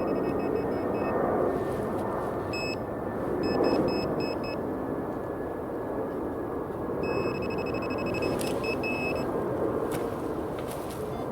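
Metal detector beeping in three runs of short, rapid repeated beeps as it sounds over a buried metal target. The beeps sit over a steady rustling noise.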